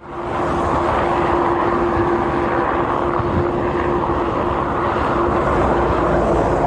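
A large machine running steadily: a loud, even rushing noise with a steady drone underneath, starting abruptly.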